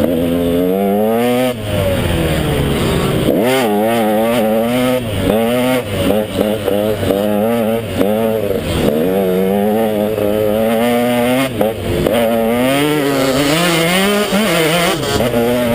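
KTM 150 XC single-cylinder two-stroke dirt bike engine racing under load, its pitch rising and falling again and again as the throttle is worked on and off, with a few sharp drops in revs.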